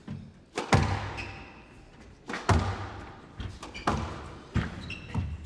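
Squash rally: the ball struck by rackets and hitting the court walls in a series of sharp knocks, some in quick pairs, with short high squeaks of shoes on the court floor between them.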